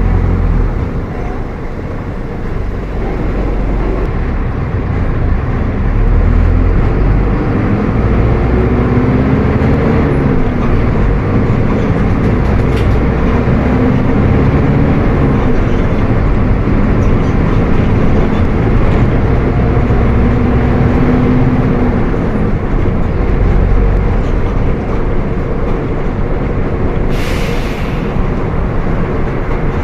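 Mercedes-Benz OF 1722M bus's diesel engine running loud under way, its pitch rising and falling several times as it pulls away and works through the gears. A short hiss of air is heard near the end.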